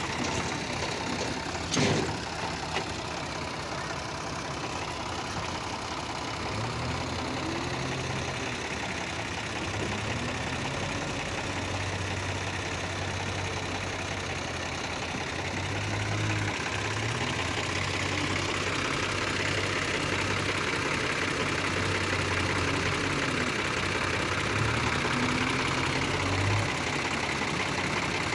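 Diesel engine of a JCB 3DX backhoe loader running and working, its pitch and load rising and falling repeatedly as it digs and loads mud. There is one sharp bang about two seconds in.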